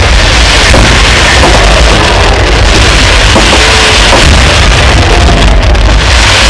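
Fireworks display booming and banging, loud enough to overload the microphone throughout.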